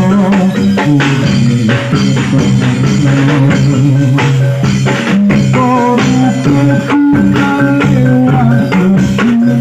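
Live reog and jaran dor accompaniment music: drums and pitched gamelan-style instruments playing at a steady beat.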